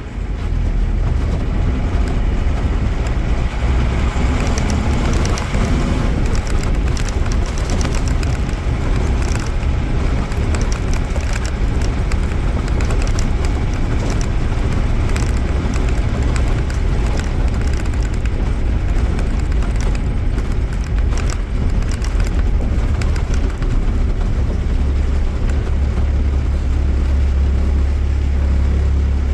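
Mercedes-Benz OM-366A inline-six turbodiesel of a Mercedes-Benz OF-1318 bus running steadily as the bus drives, with a strong low engine drone.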